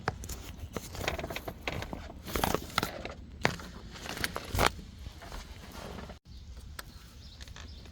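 Irregular metallic clicks, clinks and scrapes of hand tools on the engine as bolts are worked loose from the front timing cover, with a few sharper knocks in the middle.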